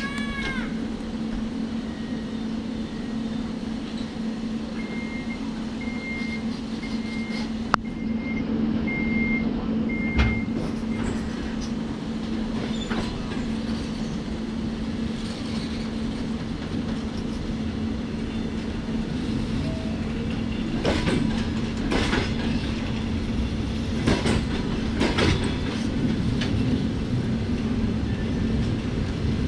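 Passenger coaches of a departing train rolling slowly past over a steady hum, their wheels clacking over rail joints. The clacks come more and more often from about two-thirds of the way in as the train gathers speed. A short run of six beeps sounds early on.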